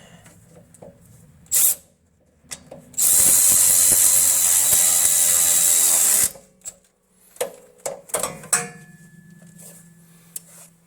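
A power tool runs steadily for about three seconds, driving a suspension bolt on a car's rear control arm. Scattered metallic clicks and knocks of tool handling come before and after it.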